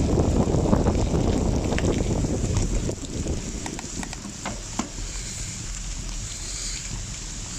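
Wind rumbling on the microphone of a bicycle ride in heavy rain; it eases about three seconds in, leaving a steady rain hiss with a few sharp taps.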